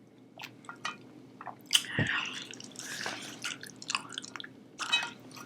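Close-miked wet chewing of sushi: mouth clicks and smacks, with a louder, denser stretch of chewing about two seconds in.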